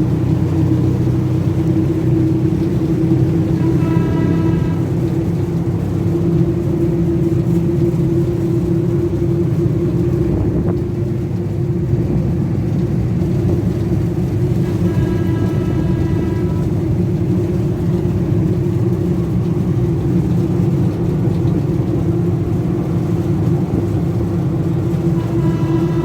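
Engine of a kiddie fun-train ride running steadily with a constant low drone. A short pitched tone sounds over it about every eleven seconds: about four seconds in, around fifteen seconds, and again at the very end.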